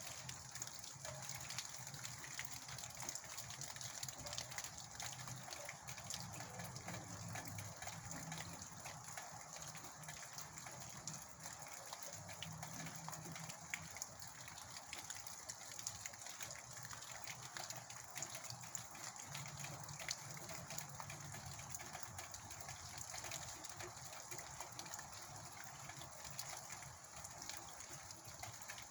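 Wind and rain in a storm: a steady, faint rushing noise with many small drop-like ticks, and a low rumble that swells and fades every few seconds.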